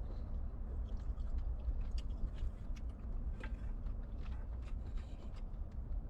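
A person eating hotpot: soft chewing with scattered small clicks, over a steady low rumble.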